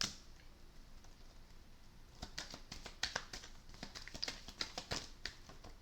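Irregular light clicks and taps: one sharp click at the start, then a loose cluster of quick clicks from about two seconds in until shortly before the end.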